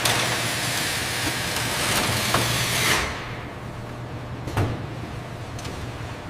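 A loud, steady hiss for about three seconds that then cuts away, leaving a low hum with a few light knocks.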